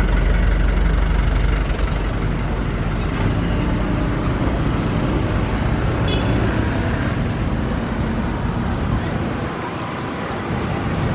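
Railway train running through the station: a steady rumble with a low engine hum that fades over the first two seconds, and a few brief high-pitched clicks about three and six seconds in.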